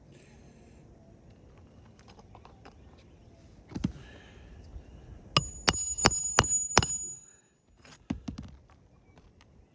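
Hammer blows during roof shingle removal: one knock, then five quick hard strikes about a third of a second apart with a high metallic ring, followed by a few lighter taps.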